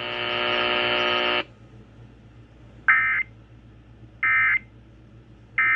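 Emergency Alert System signal on the radio after a severe thunderstorm warning. A steady buzzy tone sounds for about a second and a half and cuts off, then three short, identical squawks of digital data come about a second and a half apart: the EAS end-of-message code that closes the alert.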